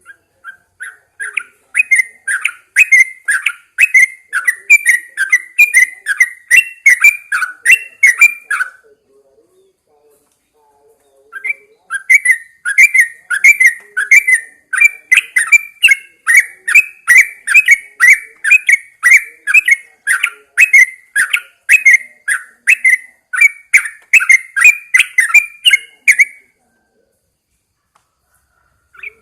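Yellow-vented bulbul singing: a long run of quick, repeated chirping notes, two to three a second. It sings in two bouts with a pause of a couple of seconds between them, and stops a few seconds before the end.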